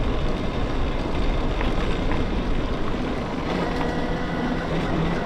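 Wind rushing over the microphone while riding a BBSHD mid-drive electric mountain bike, with a thin steady whine from the motor coming in about three and a half seconds in.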